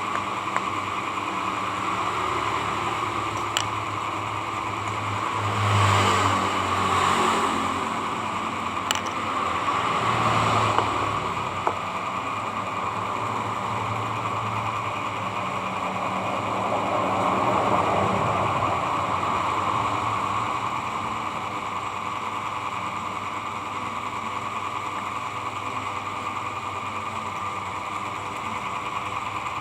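Electric hair clipper running steadily while its freshly sharpened blade is tested, with a few swells in loudness and a couple of sharp clicks along the way.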